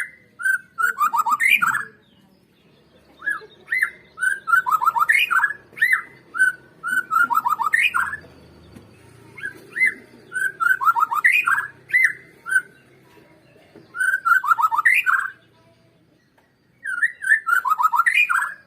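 Murai batu (Bornean shama) singing: about six bursts of quick, sliding whistled notes, each one to three seconds long, with short pauses between.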